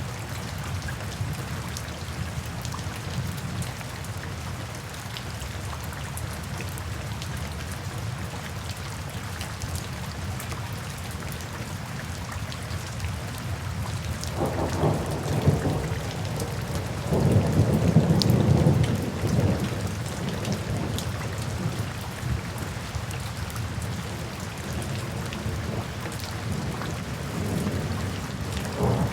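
Steady rain falling, with two low rolls of thunder rumbling through it about halfway in. The second roll is longer and the loudest sound in the stretch.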